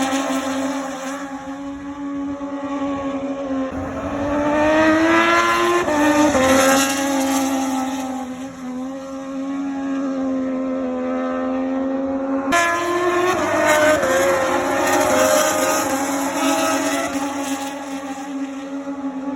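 Racing motorcycles running on track, their high-revving engine notes rising and falling as they accelerate and shift, with an abrupt jump in the sound about two-thirds of the way through.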